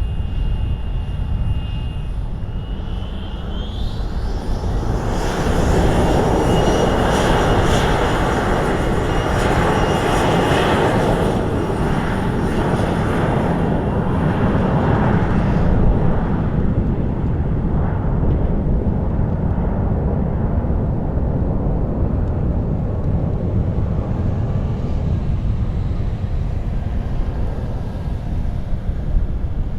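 Jet airliner passing on the runway: a high turbine whine rises about three seconds in, then loud jet engine noise builds, peaks and slowly fades. Strong wind buffets the microphone with a low rumble throughout.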